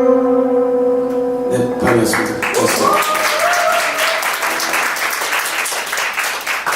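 A band's final sustained chord rings and stops about a second and a half in, then an audience claps, with a short cheer over the applause.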